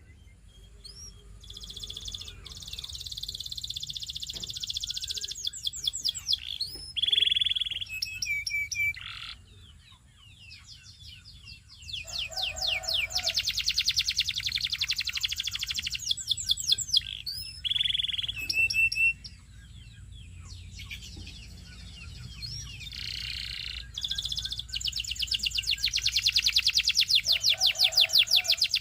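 Domestic canary singing: three long song phrases of very rapid trills and rolls, with short whistled notes and quieter pauses between them.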